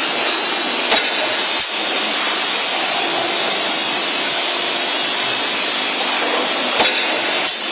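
CNC wire bending machine running: a steady whirring hiss with a few sharp clicks, one about a second in, another shortly after, and one near the end.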